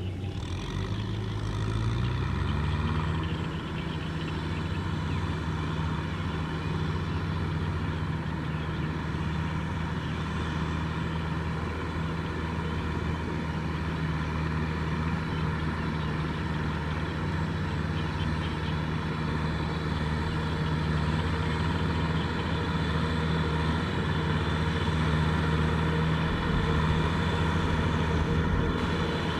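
Kubota M6040SU tractor's diesel engine rising in pitch over the first couple of seconds, then running steadily.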